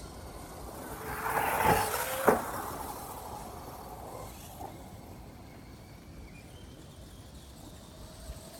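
A radio-controlled truck's motor whines as the truck passes close by, rising and then fading over a couple of seconds, with one sharp knock about two seconds in.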